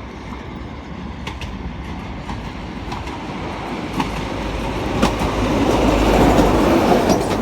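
CrossCountry HST (InterCity 125) arriving at speed: the Class 43 diesel power car and the wheels clicking over rail joints grow steadily louder as the train draws in, with a deep rumble building through the second half.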